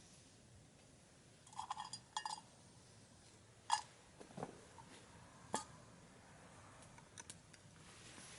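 Faint light clinks and taps of metal camp cookware being handled, a few separate knocks with a short ring: a pair about a second and a half in, a sharper one near four seconds, another past five and a half seconds.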